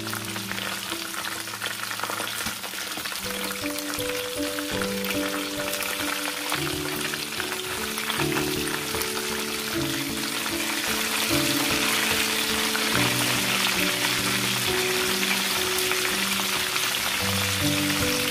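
Breaded chicken drumsticks frying in hot oil in a skillet: a dense, steady sizzle that grows louder through the first half. Soft background music with held notes plays underneath.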